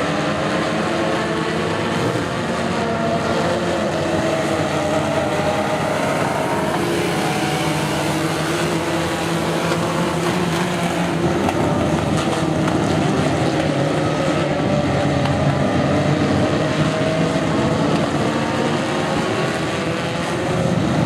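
Tough truck racing engines revving hard, several at once, their pitch rising and falling as the drivers go on and off the throttle.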